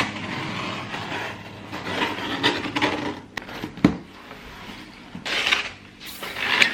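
Rustling and rubbing from objects being handled, swelling and fading unevenly, with a sharp knock about four seconds in.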